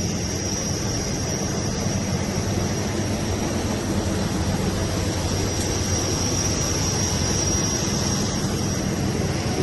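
Steady car engine and road noise heard from inside a moving car, with a faint high-pitched whine running through it.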